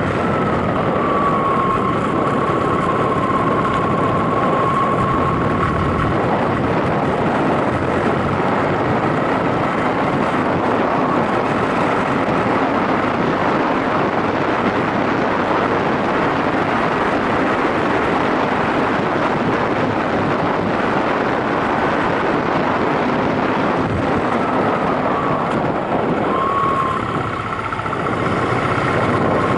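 Yamaha SRX400 motorcycle on the move: its single-cylinder engine running under a steady rush of wind noise, with a short drop in level near the end.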